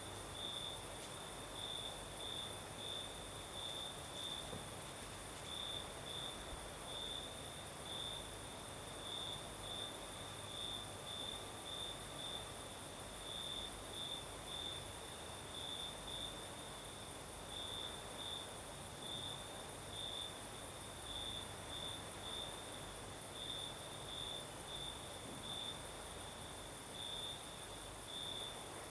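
Crickets singing at night: one chirping in a steady run of short high pulses, about two a second, over a continuous very high, thin insect trill.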